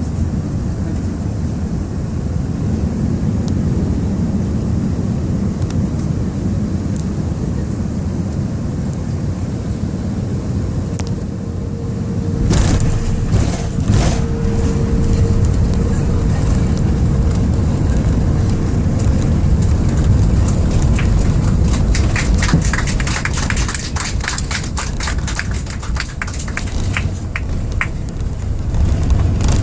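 Airbus A380 cabin noise during landing: a steady low rumble that jumps suddenly about twelve seconds in as the wheels touch down, then a heavier rumble from the landing roll with a rapid clattering rattle in the cabin over the later seconds.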